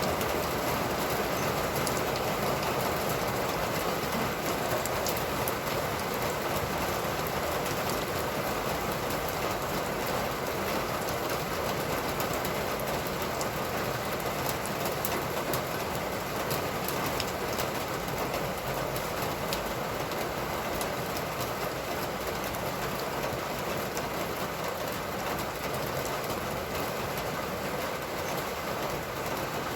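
Steady rain falling, an even hiss with many scattered drop ticks, easing slightly toward the end.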